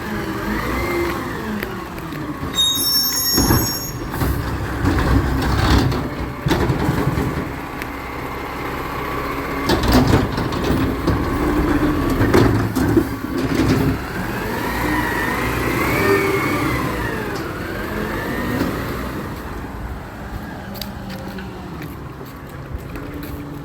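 Recycling truck at work: its engine revs up and down several times, with knocks and clanks and a brief high squeal about three seconds in. It grows fainter near the end.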